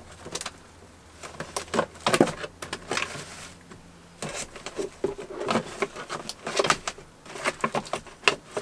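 Items being shuffled around in a packed fridge to make room: irregular knocks, clicks and rattles of containers being moved.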